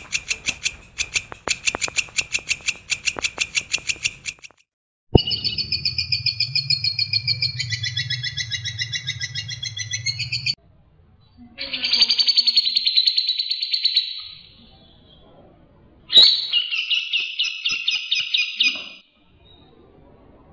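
Songbird song from a spliced compilation of recordings: first a fast run of repeated sharp chirps at about six a second, then, after a click and a cut, a varied trilling phrase over a low hum, then two bursts of dense buzzy chattering, each ending abruptly with short gaps between.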